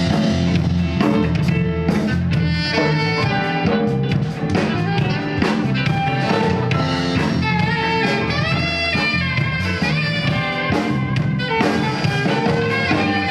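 A live band playing a song's instrumental intro, with saxophone and drum kit.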